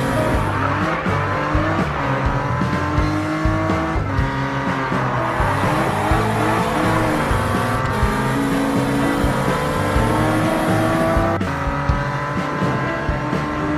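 Cartoon vehicle engine sound effects over bouncy background music, with pitch glides like revving.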